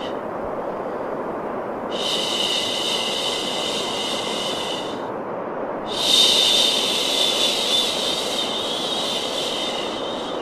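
Steady white noise, a continuous hiss, with a higher, brighter hiss and a thin whine layered on top. The higher layer cuts in about two seconds in, drops out for about a second near the middle, and comes back louder.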